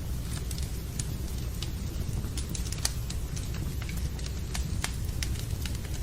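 Fireplace and rain ambience: a wood fire crackling with many irregular sharp pops over a steady low rumble.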